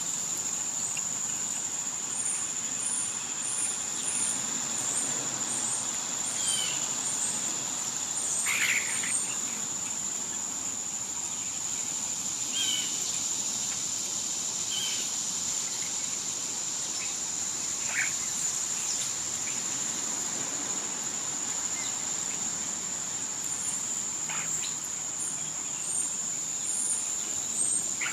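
Steady, high-pitched drone of summer insects, with scattered short bird chirps and calls over it.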